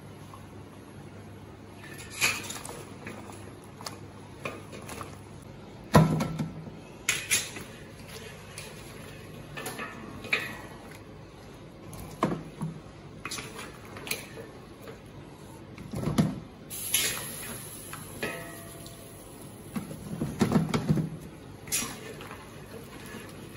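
A metal ladle knocking and scraping against a wok and a stainless-steel tray as chunks of stewed meat on the bone are lifted out and set down. Irregular clinks and clatters, the sharpest about six seconds in, with a cluster of them near the end.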